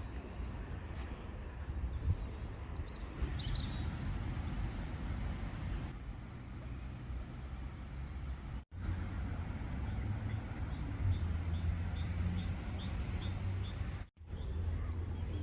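Steady low rumble with a haze of background noise and faint short high chirps, a run of them near the end; the sound cuts out abruptly twice.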